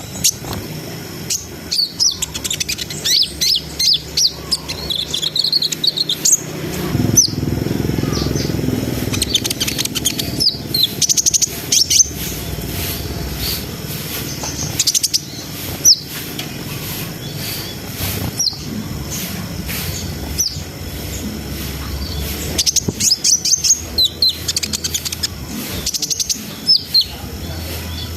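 Kolibri ninja sunbird singing: bursts of rapid, high twittering and sharp chirps, with short pauses between phrases. A low rumble runs under the song through the middle stretch.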